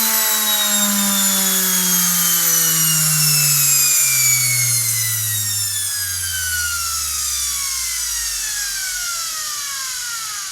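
High-speed electric motor spinning down, its whine falling steadily in pitch over several seconds as it slows, with a rushing hiss above.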